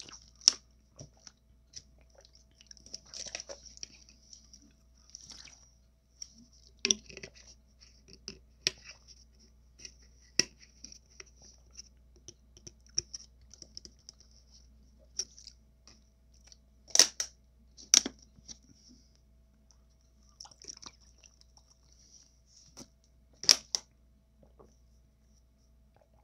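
Close-miked chewing of a taco, with small mouth sounds and scattered sharp clicks. The loudest snaps come twice in quick succession a little past the middle, and once more near the end.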